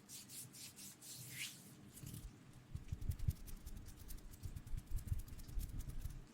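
Faint ASMR rubbing and rustling right at the microphone: a string of short scratchy strokes with soft, dull bumps underneath.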